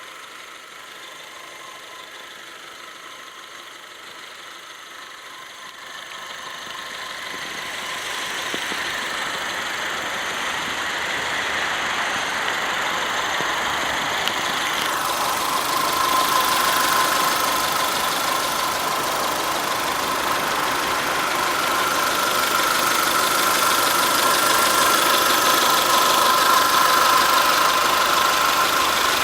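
TagAZ Aquila's 1.6-litre 16-valve inline-four idling with a steady high whine. It grows louder from about six seconds in, then holds steady.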